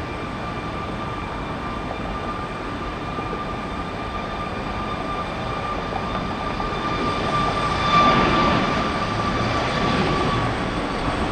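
Jet aircraft engines running, with a steady high whine over a broad rush that swells and peaks about eight seconds in as the aircraft passes closer.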